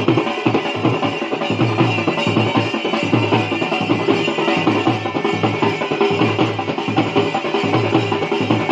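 Bhaderwahi folk dance music driven by steady, rapid dhol drumming.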